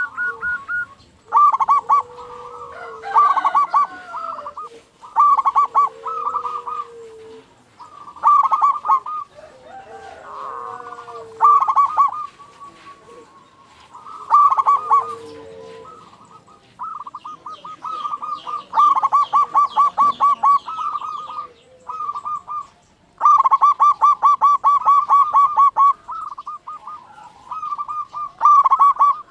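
Zebra dove (perkutut) cooing: repeated phrases of rapid, pulsed, trilled coos, each a second or a few seconds long, with short pauses between them. This is the persistent calling of a male in full song, used to provoke other zebra doves to answer.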